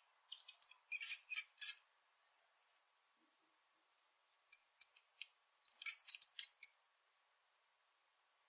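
A small animal's high-pitched squeaking chirps in short rapid clusters: one burst about a second in and a longer run of chirps from about four and a half to six and a half seconds in, with silence between.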